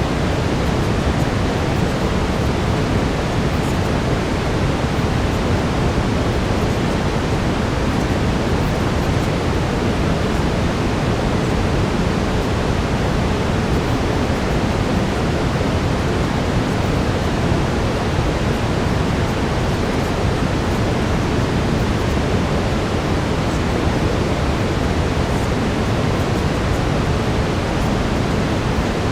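Steady brown noise, a deep, even hiss heaviest in the low end, with a faint steady tone underneath.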